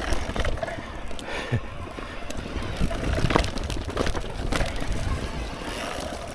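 Mountain bike rattling and clattering over a rough, slippery trail, with scattered sharp knocks from the bike jolting over roots and rocks over a steady rumble of tyre and wind noise.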